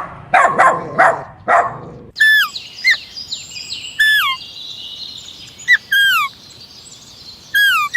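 A dog barks a few times. Then, from about two seconds in, a bird gives repeated whistled calls, each a short held note that drops in pitch, over fainter high twittering.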